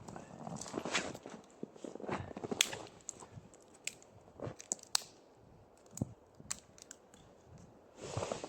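Footsteps crunching through snow, uneven and halting, with a few sharp clicks among them.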